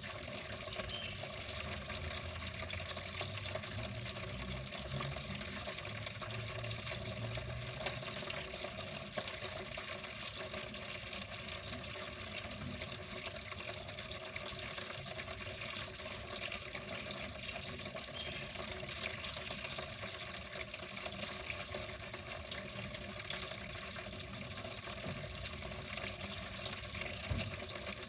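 Water flowing steadily and evenly, with no pauses.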